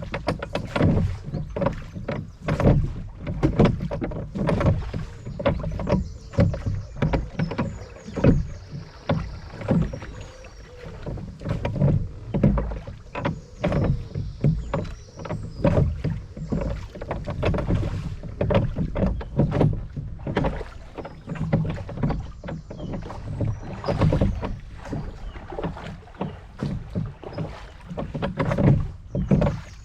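Water splashing and lapping around a rowboat on a river, with frequent irregular splashes.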